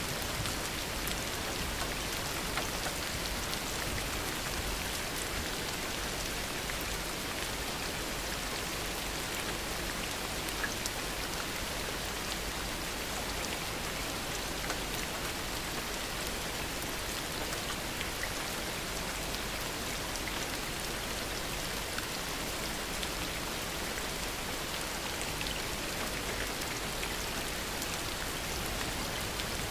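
Steady heavy rain falling, an even hiss with scattered drops ticking on surfaces.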